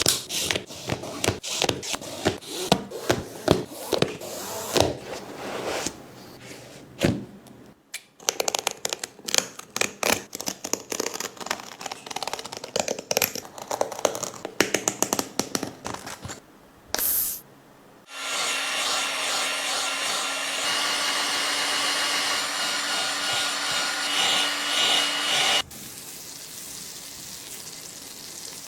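A sneaker being pulled and cut apart: rapid runs of crackling and tearing. Then a steady blowing hiss lasts about seven seconds and stops abruptly.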